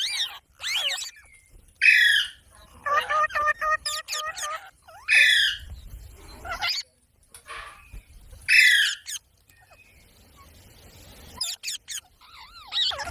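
Parrot squawking: three loud, harsh calls that fall in pitch, about three seconds apart, with softer chattering and warbling between them.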